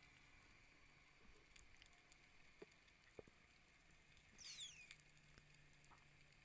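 Near silence with a few faint clicks, and one brief high squeak that falls in pitch about four and a half seconds in.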